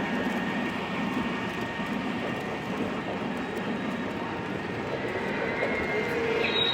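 Model train running along a layout track with a steady rolling rumble; a thin high wheel squeal sets in near the end.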